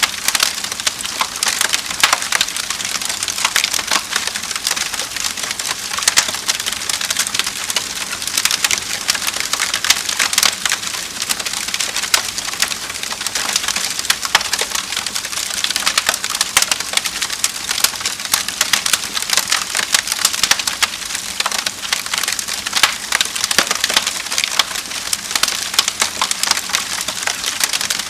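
Wood fire crackling steadily, with dense snaps and pops over a constant hiss.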